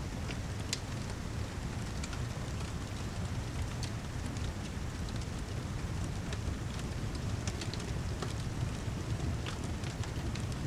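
Steady rain mixed with a crackling wood fire: a continuous hiss and low rumble, with sharp pops and crackles scattered at irregular moments.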